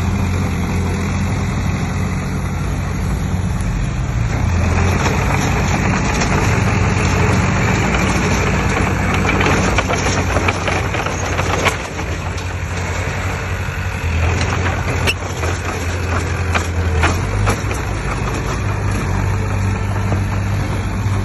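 Heavy diesel earthmoving machinery running steadily, with a few sharp metallic knocks around the middle and again a little later.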